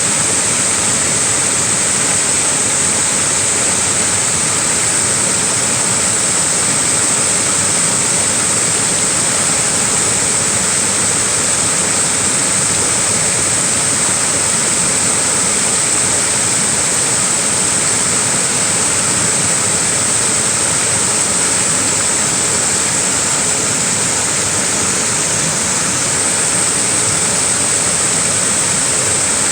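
Small waterfall: a steady, unbroken rush of falling water with a bright hiss on top.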